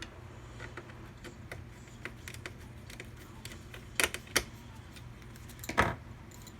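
Small clicks and light rattles of computer parts and hardware being handled, with two sharp clicks about four seconds in and a louder clattering clack near the end, over a faint steady low hum.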